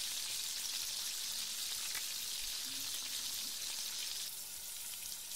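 Diced carrots, green beans, green pepper and onion sizzling steadily in hot oil in a wok as a wooden spatula stirs them. The hiss eases slightly about four seconds in.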